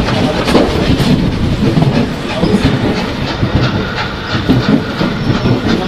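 Steam-hauled train of wagons running along the track behind a South African Railways Class 24 2-8-4 locomotive: a steady rumble with irregular clattering of wheels over the rails.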